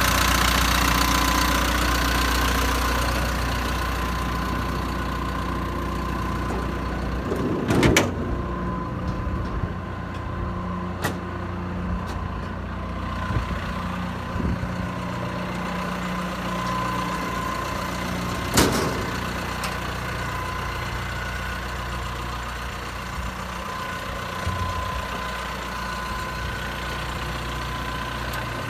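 The John Deere 160G LC excavator's diesel engine idling steadily, getting a little quieter over the first few seconds. Two sharp knocks stand out, about a third of the way in and again past the middle, with a few lighter clunks between them.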